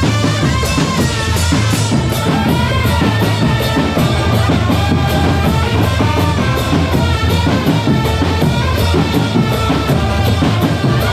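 Drum corps music: a wavering melody over a steady beat of bass and snare drums.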